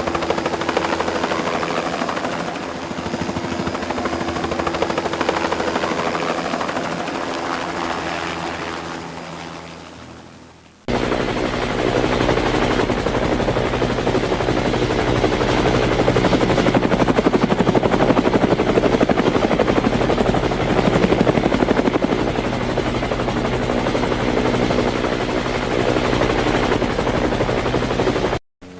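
Helicopter engine and rotor running steadily in flight. The sound fades down about ten seconds in, then cuts to a louder stretch of helicopter noise that stops abruptly just before the end.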